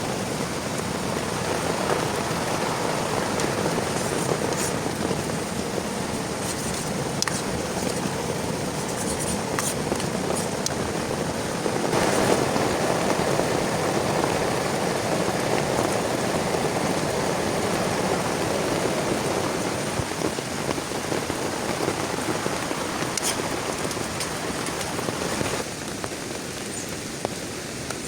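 Heavy rain falling steadily, with scattered drops ticking. It grows louder about twelve seconds in and drops abruptly in level a couple of seconds before the end.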